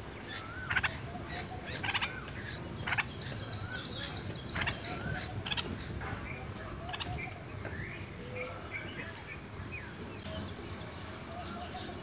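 Birds chirping: many short, sharp chirps and a few wavering whistles, busiest in the first half and thinning out later, over a steady low hum of background noise.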